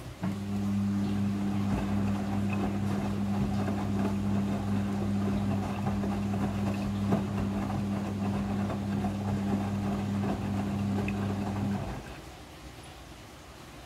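Midea front-loading washing machine humming steadily with a low electric buzz, which cuts off sharply about twelve seconds in.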